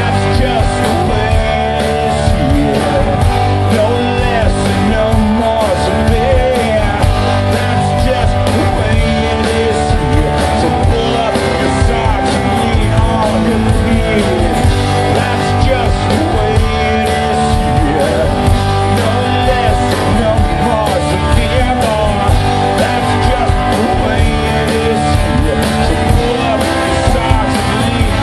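Live rock band playing an instrumental stretch: loud distorted electric guitars over bass and drums, with steady drum hits throughout.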